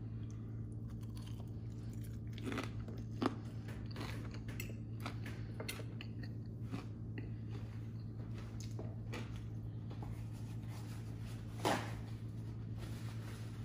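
A person chewing a mouthful of crinkle-cut french fry with bacon and cheese sauce: soft crunches and mouth clicks scattered throughout, over a steady low hum. One louder knock near the end.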